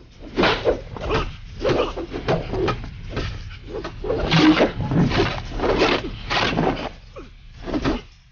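Staff-fighting sound effects: long wooden staffs swishing and clacking in quick exchanges, about two strikes a second, with fighters' shouts mixed in.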